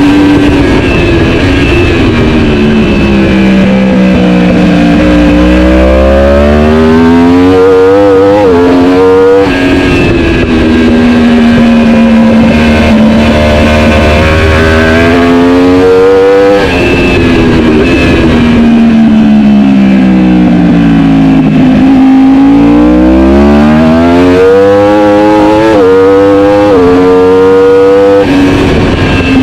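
Superbike engine at race pace. The revs fall and then climb again in steps through the gears, several times over, as the bike brakes for corners and accelerates out of them.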